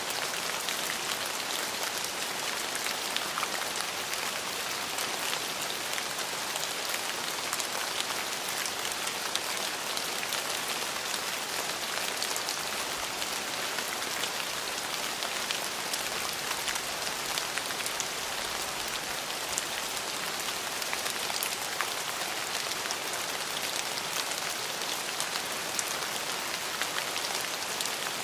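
Steady rain falling, a dense even patter of raindrops on a surface, with no thunder.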